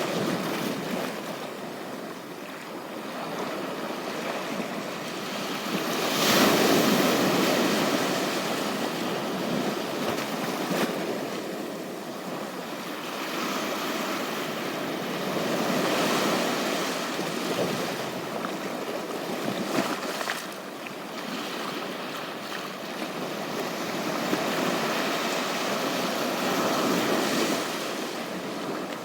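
Ocean surf breaking and washing up a beach, the sound swelling and easing every few seconds; the loudest swell comes about six seconds in.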